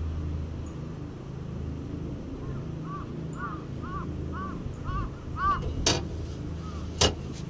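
A low steady rumble, with a bird calling in a run of short rising-and-falling notes about twice a second in the middle, then two sharp knocks near the end.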